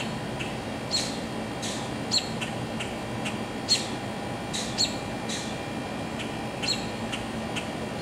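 Birds chirping outdoors: short, high calls that sweep downward, repeating about once or twice a second. A steady low hum runs underneath.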